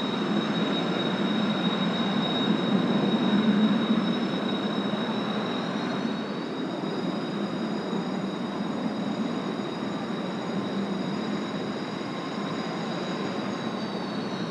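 Jet engines of Kawasaki T-4 trainers running, a steady high turbine whine over a loud rumble. A second whine rises in pitch about six seconds in, holds, and drops back near the end.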